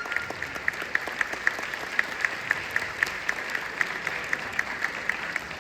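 Audience applauding, with one pair of hands clapping close by at a steady pace of about four claps a second above the rest.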